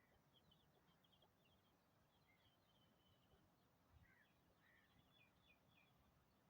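Near silence with faint, high, short bird chirps in quick runs, over a low background hiss.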